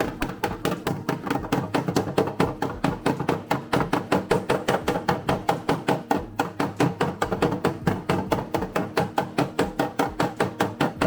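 A body hammer tapping rapidly and evenly on a Toyota AE86's steel body panel, about five blows a second, each with a short metallic ring. The hammering is shrinking the panel and working a distortion out of it.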